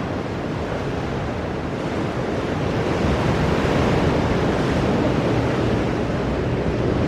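Ocean surf breaking on rocks, a steady wash that swells a few seconds in, with some wind on the microphone.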